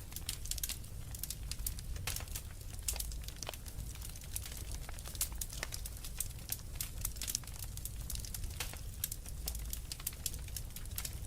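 Wood fire burning in a fireplace: dense, irregular crackles and pops over a steady low rumble of the flames.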